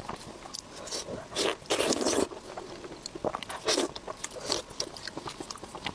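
Close-miked eating sounds: a run of separate bites and chewing noises, with a longer, louder burst about two seconds in.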